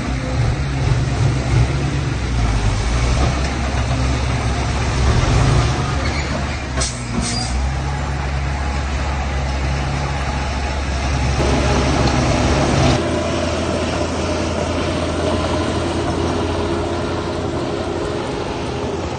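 Heavy diesel machinery engine running steadily with a deep rumble, which drops and changes pitch about thirteen seconds in. There is a brief high-pitched hiss about seven seconds in.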